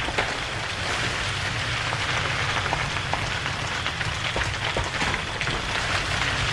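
A toy tractor's small electric motor and gears run steadily while its wheels and the rocks it pushes scrape through sand, giving a continuous crackling hiss over a low hum with scattered small ticks.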